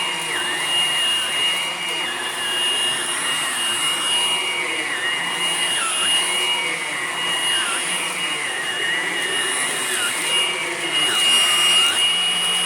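Hoover Blade Plus cordless stick vacuum running while it cleans the floor: a steady high whine with a second, lower note that wavers and dips every second or two as the head is worked back and forth.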